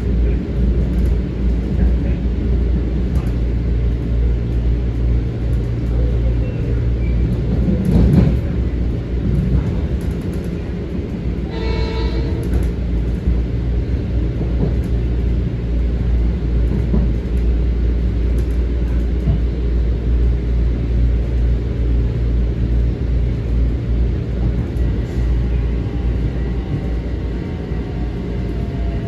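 Steady low rumble of an M7 electric commuter train. There is a louder thump about eight seconds in, a brief tone about twelve seconds in, and a faint rising whine near the end.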